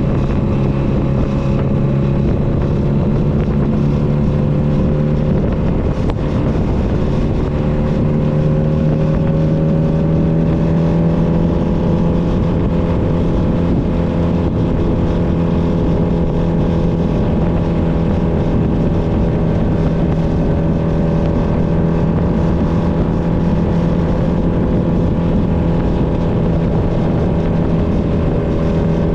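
Honda Nighthawk 250's air-cooled parallel-twin engine running under way. Its pitch shifts about five or six seconds in, then rises gently over the next few seconds as it speeds up, and holds steady after that.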